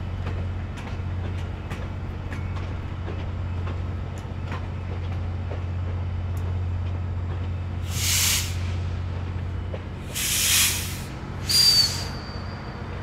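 GO Transit bilevel commuter train rolling slowly past, with the steady hum of its diesel locomotive and faint wheel clicks. In the second half come three loud bursts of compressed air hissing, typical of air brakes, the last with a thin squeal.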